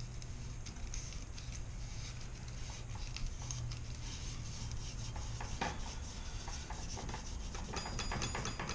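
Irregular hand rubbing and scraping as grime is cleaned out of an old key machine's electric motor part, with a fresh piece of cleaning material pushed through using a plug follower. A quick run of small clicks comes near the end.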